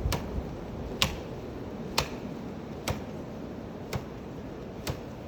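Axe chopping into wood: sharp strikes about once a second in a steady, even rhythm.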